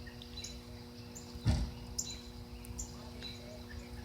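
Birds giving short, high chirps about every half second, over a steady low hum, with a single thump about one and a half seconds in.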